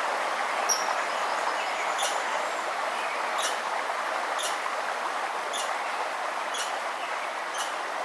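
Steady rush of a river or stream, with a bird repeating short, sharp chip notes about once a second and a brief high whistle near the start.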